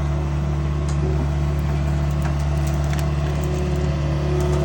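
Takeuchi TB250-2 mini excavator's diesel engine running steadily as it crushes pine branches down into a dump truck bed, with a few faint cracks of wood.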